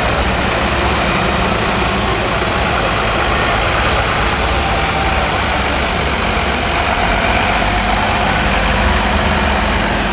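Heavy military trucks' engines running steadily, a continuous low engine sound of vehicles in a convoy.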